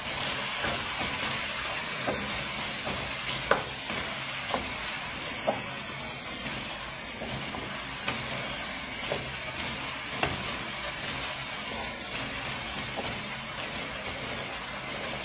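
Creamy chicken curry frying with a steady sizzling hiss in a non-stick wok while a wooden spatula stirs it. Scattered taps and scrapes of the spatula on the pan come mostly in the first ten seconds. This is the bhuna stage, frying the curry after cream is added.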